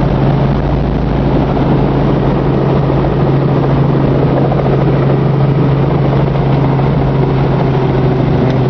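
Helicopter in flight: a steady, even drone of engine and rotor with a strong low hum throughout.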